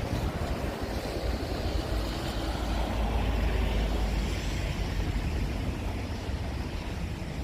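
Wind rumbling on the microphone, with a rushing noise that swells and fades about halfway through.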